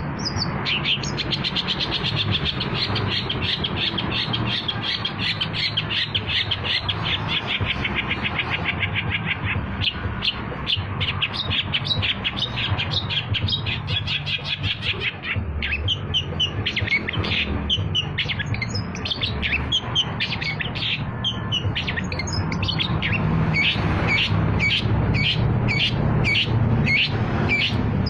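Long-tailed shrike (cendet) singing: a fast chattering run of short, high repeated notes, then slower, sharper separate chirps in the second half, over a steady low hum.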